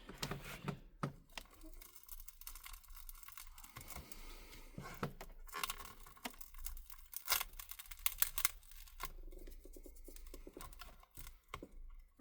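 Cracked front glass of a Samsung Galaxy Tab A T580 being prised up off its adhesive: faint peeling of the glue with scattered sharp clicks and small cracks of the broken glass.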